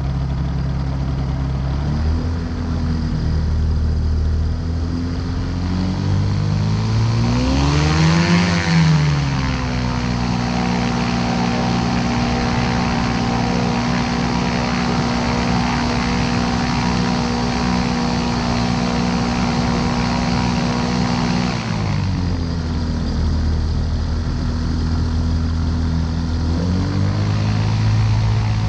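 Ultralight aircraft's engine and propeller running just after start-up. The engine speed changes as it runs: a brief rise and fall peaking about eight seconds in, a long steady stretch, a drop about twenty-two seconds in, and a rise again near the end.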